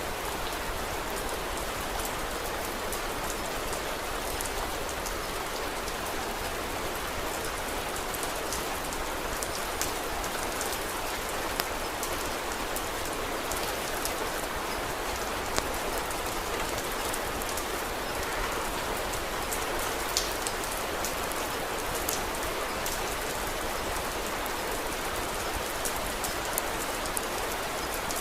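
Steady rain falling, an even hiss of drops, with scattered sharp ticks and a few louder pops throughout.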